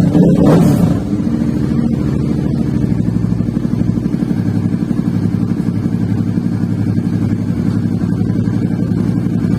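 Suzuki V-Strom 650's V-twin engine: a quick throttle blip in the first second, then a steady idle with an even, pulsing beat.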